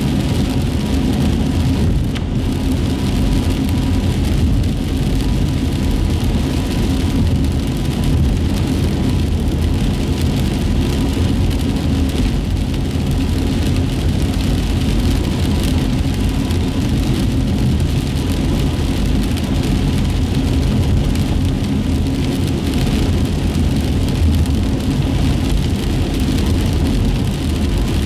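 Steady road noise heard inside a moving car on wet streets: a low rumble of the car running along with the hiss of tyres on wet pavement.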